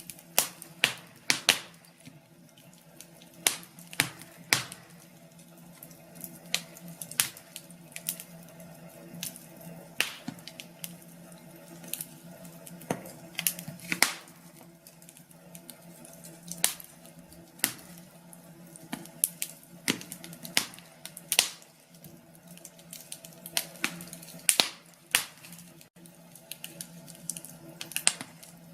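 Wood fire crackling, with sharp pops at irregular intervals, some of them loud, over a steady low hum.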